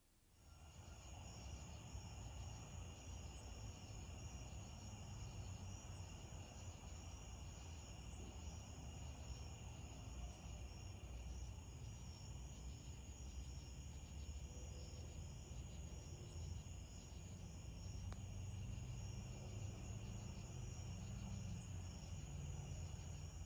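Crickets and other insects trilling steadily in two high bands, over a low rumble.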